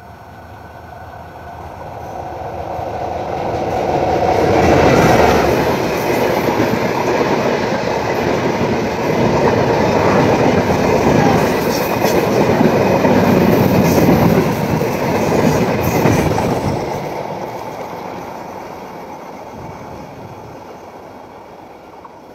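Bangladesh Railway broad-gauge passenger train, hauled by a diesel locomotive, approaching and passing close by. Its engine and wheel noise grows over about five seconds, the coaches rattle past with clicks from the wheels, and the sound fades away over the last six seconds or so.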